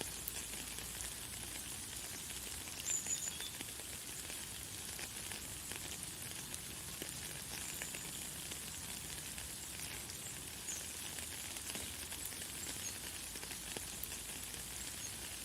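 Light, fine rain falling steadily, a soft crackling hiss of many small drops. A few brief, high bird chirps come through, the clearest about three seconds in.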